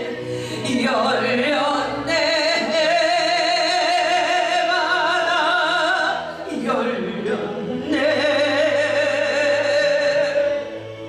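Worship song sung live by a woman, holding long notes with heavy vibrato, with two swooping slides in pitch, over steady instrumental accompaniment.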